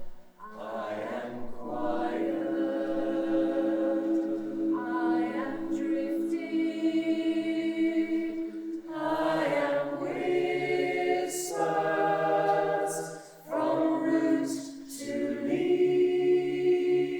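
Choir singing a cappella in long held chords, phrase by phrase, with short breaths between phrases.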